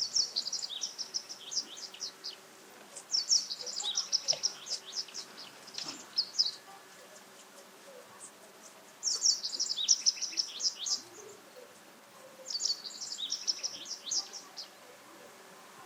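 Japanese wagtail singing: four phrases of quick, high twittering notes with short pauses between them.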